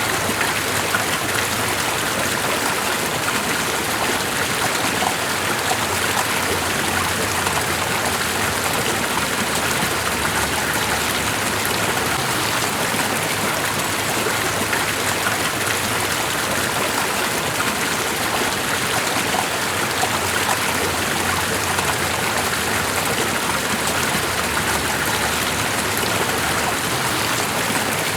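Steady, even water noise with a fine texture of droplets and splashes, unchanging throughout.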